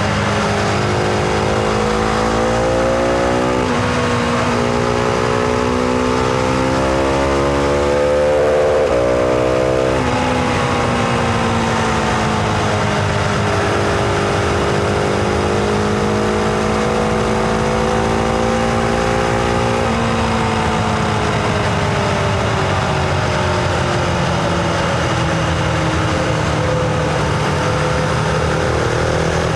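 Husqvarna Vitpilen 701's single-cylinder engine pulling under load, its pitch rising and dropping sharply at gear changes a few times, then slowly falling near the end as the throttle eases off. Wind and road noise run underneath.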